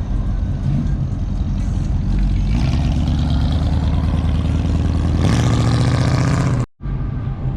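A car engine running nearby, its pitch and loudness stepping up twice as it is revved. The sound cuts off completely for a moment near the end.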